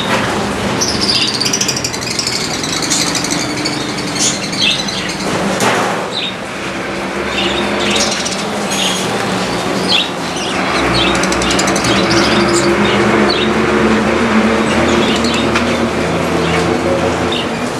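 Many small birds chirping and tweeting in quick short calls. About ten seconds in, a steady motor hum joins them.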